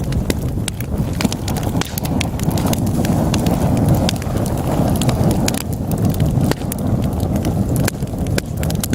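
Wood fire burning in a fireplace: a steady low rush of flames with many sharp, irregular crackles and pops from the burning logs.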